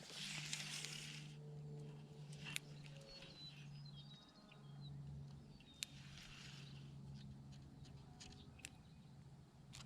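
Faint outdoor ambience: small birds chirping over a low steady hum, with a couple of short hissing swells, one at the start and one about halfway.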